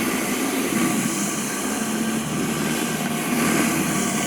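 Greenworks Pro 3000 PSI electric pressure washer running, its high-pressure water jet spraying through a wheeled disc surface cleaner onto a concrete sidewalk: a loud, steady hiss with a faint motor hum underneath.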